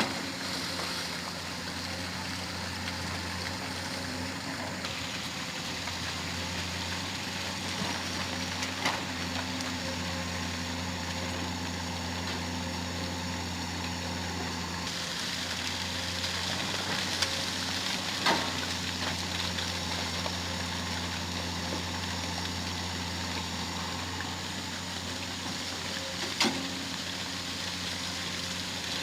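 Excavator's diesel engine running steadily, with a few sharp knocks scattered through.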